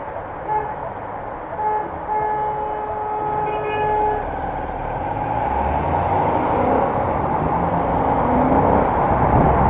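A horn sounds a steady tone in short blasts and then one held blast over the first few seconds. After that, a low engine rumble builds and grows louder.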